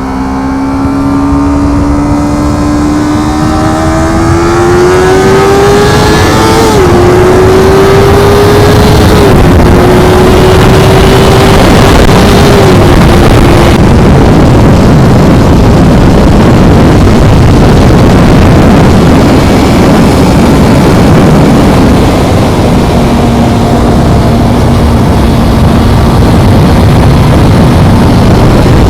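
A vehicle engine accelerating with a rising note, dropping in pitch three times as it shifts up through the gears. From about halfway through, heavy wind noise on the microphone covers the engine at speed.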